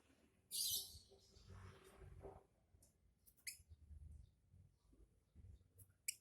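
Lovebird giving a few short, high-pitched chirps and squeaks, the loudest a brief burst about half a second in, with further sharp chirps around the middle and near the end; not a sustained ngekek trill.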